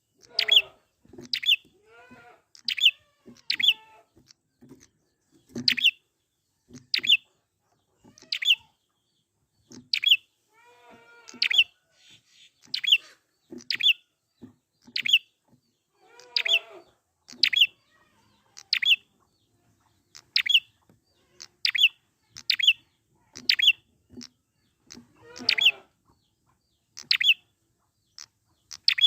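Prenjak (prinia) calling over and over, sharp high notes that sweep downward, about one a second. A few lower, wavering calls are mixed in among them.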